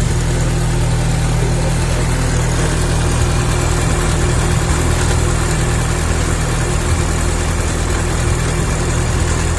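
A 2012 Scion tC's 2.5-litre four-cylinder engine idling steadily.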